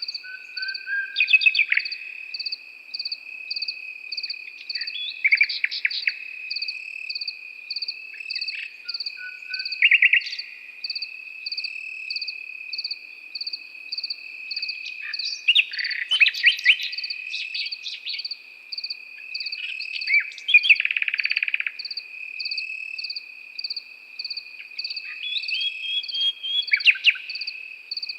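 Nightingale singing in short, varied phrases a few seconds apart, one of them a fast rattling run of notes. Behind it crickets trill continuously, and a second insect chirps in a steady rapid pulse.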